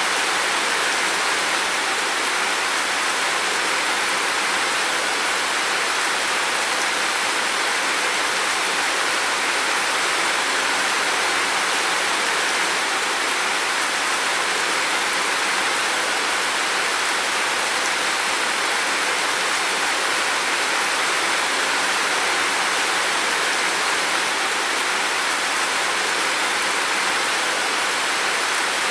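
Heavy rain falling steadily, a dense, even hiss with no breaks or single drops standing out.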